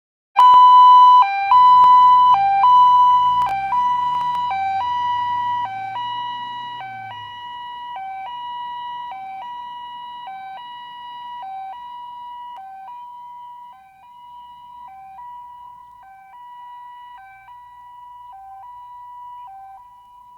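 Two-tone ambulance siren starting abruptly about half a second in, alternating a long higher note with a short lower note about once a second and gradually fading. A low wavering rumble sits under it for the first several seconds.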